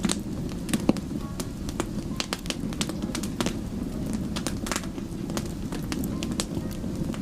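Wood fire burning, with a steady low rush of flames and frequent sharp, irregular crackles and pops from the burning wood.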